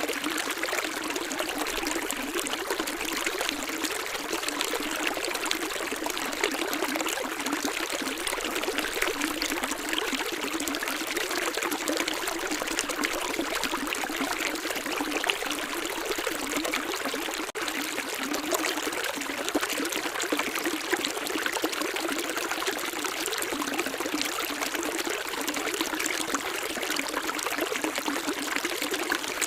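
Running water in a stream, splashing and trickling steadily with no let-up.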